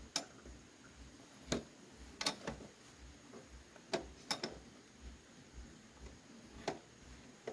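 Irregular sharp clicks and taps, about eight in all, from tools and parts being handled during motorbike repair work.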